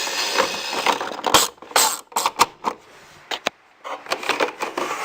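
A steady hiss for about the first second, then irregular clicks and knocks of hard plastic parts of a Thunderbirds Tracy Island toy playset being handled, with a short lull near the end.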